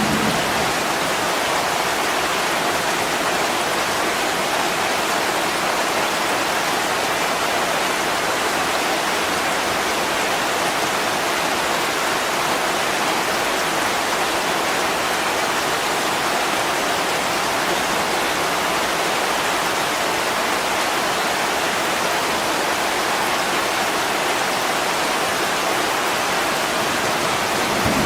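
Heavy rain falling steadily, an even, unbroken hiss with no single drops or gusts standing out.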